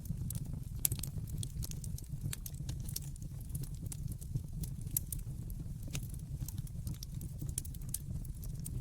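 Wood fire crackling, with frequent sharp, irregular pops and snaps over a low steady rumble of the flames.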